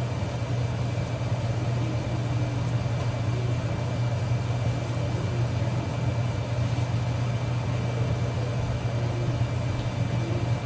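Steady low machine hum, unchanging throughout, with a faint even hiss underneath.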